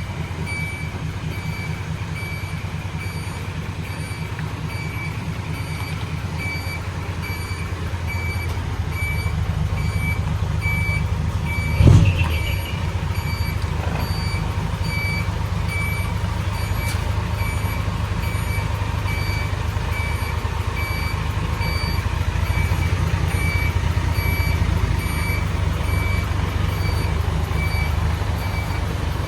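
Isuzu Forward 320 truck's diesel engine running at idle through a split exhaust manifold and single muffler, with a short regular beeping over it about once a second. About twelve seconds in there is one brief loud burst.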